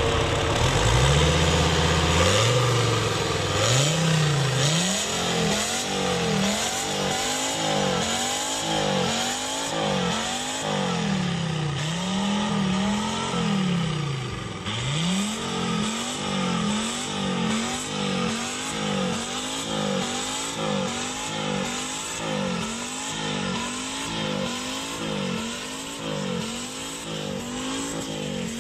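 Volvo 850 2.5 TDI five-cylinder turbodiesel with a straight-through exhaust, revved again and again: the engine note climbs and drops back in slower swells at first, then in quick blips about once a second.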